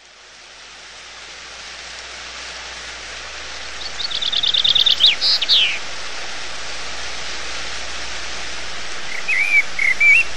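Birds singing over a steady hiss that fades in from silence: a fast trill of repeated high notes about four seconds in, then a couple of falling whistles, and short chirping notes near the end.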